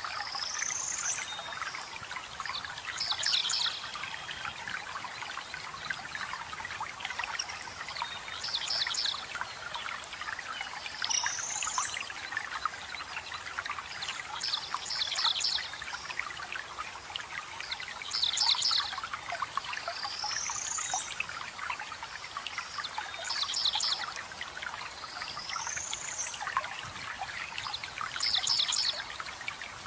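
Small waterfall trickling and splashing steadily, with forest birds calling over it. Every few seconds a bird gives either a quick cluster of high rapid notes or a single rising whistle, the two calls alternating.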